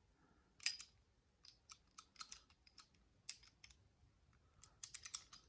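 Scattered light clicks and taps of small metal tools and padlock parts being handled, as an Allen wrench is worked on the lock during disassembly.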